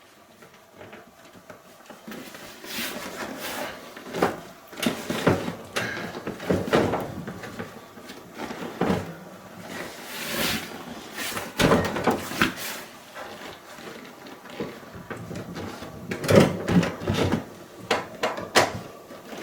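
Irregular clunks, knocks and scraping of a recliner's seat back being worked into its metal slide-in latch brackets, with the loudest knocks about three quarters of the way through.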